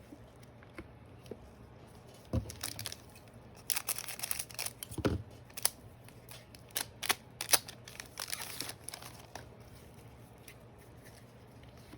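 Trading cards being handled and shuffled by hand, with a run of light clicks, slides and rustles from about two seconds in to about nine seconds in.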